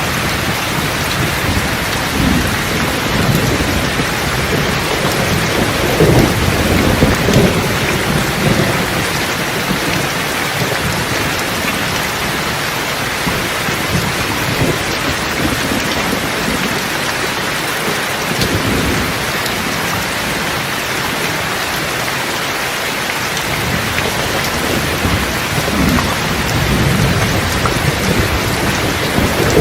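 Steady heavy rain with rolling thunder rumbling underneath it, swelling about six seconds in, again around eighteen seconds, and building near the end.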